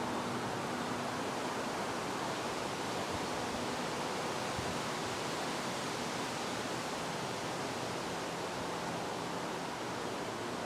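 Steady wind, an even rushing hiss that neither rises nor falls, with a faint low hum now and then.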